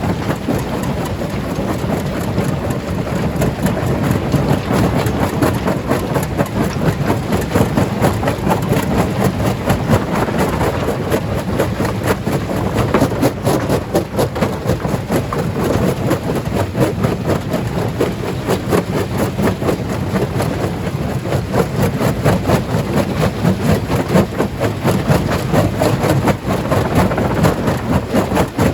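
Stone crusher running under load: a steady heavy rumble with a dense, irregular clatter of rocks breaking and knocking.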